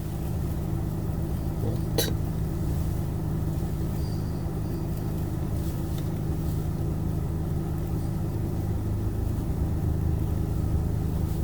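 Steady low hum of a taxi's engine, heard from inside the cab, with one short sharp sound about two seconds in.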